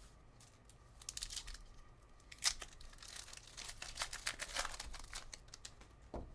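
Foil trading-card pack being torn open and its wrapper crinkled: a run of short rips and crackles, the sharpest about two and a half seconds in.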